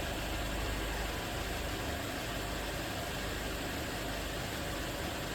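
Yamaha XV1100 Virago V-twin motorcycle engine idling, running steadily.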